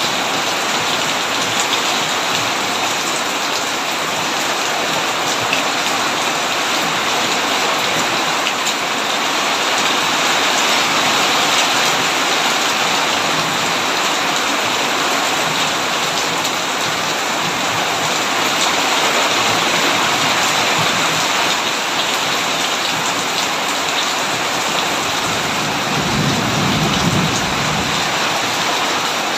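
Heavy rain drumming steadily on a tin roof. Near the end a low rumble of distant thunder swells briefly.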